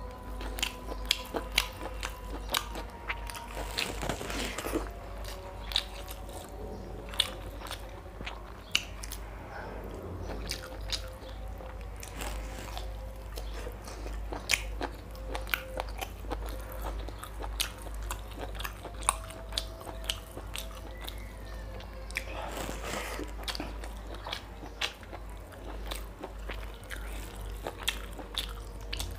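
A man chewing rice and mutton curry right at a clip-on microphone: wet smacking with many sharp, irregular mouth clicks.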